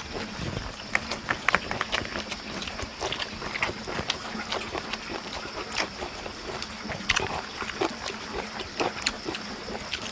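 People chewing and smacking their lips while eating, a run of irregular wet clicks and smacks.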